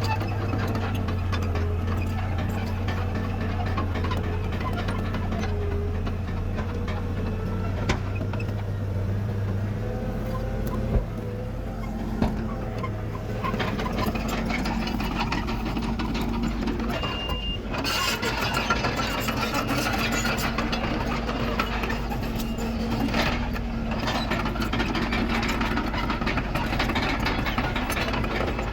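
Diesel engines of heavy earthmoving machinery, a crawler bulldozer working dirt with dump trucks, running steadily. The engine note shifts about ten seconds in, a couple of knocks come soon after, and a single short reversing beep sounds about seventeen seconds in.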